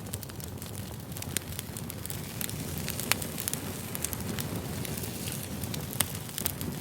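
Campfire crackling: a steady low rumble of burning wood with frequent sharp pops, two of them louder, about three seconds in and again near six seconds.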